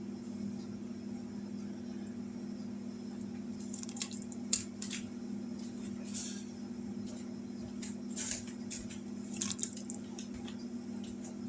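Pot of chicken broth with dumplings in it bubbling as it comes back up to a boil: scattered soft pops and sputters starting about three to four seconds in, over a steady low hum.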